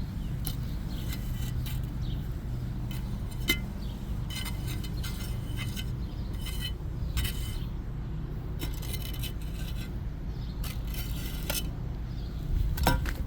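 Gritty scraping and rustling of dirt being scooped and spread with a small hand tool, in short bursts with an occasional sharp click, over a steady low rumble. A louder knock comes near the end.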